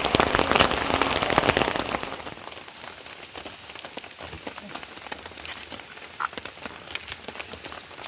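Rain falling, a dense hiss of drops for about two seconds, then dropping suddenly to a quieter patter of scattered drops.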